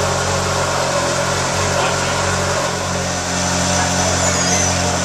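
A car engine idling steadily nearby, a constant low hum with no revving.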